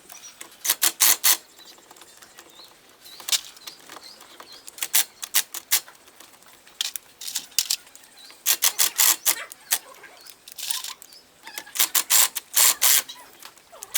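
Clusters of sharp metallic clicks and clinks, a handful at a time and every second or two, from hand tools and small metal parts being worked on the car.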